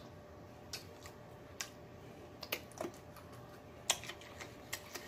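Faint, irregular wet mouth clicks and lip smacks from eating fried chicken legs, about a dozen spread out, the sharpest nearly four seconds in.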